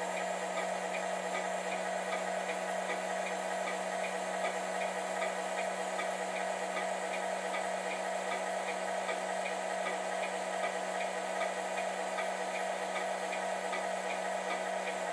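1/14 Tamiya Volvo FH16 tow truck RC model running: a steady hum, with a light, even ticking over it. The hum cuts off near the end.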